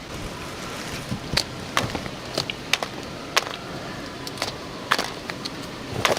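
A series of sharp, irregular clicks and knocks, about ten of them, over a steady background hiss.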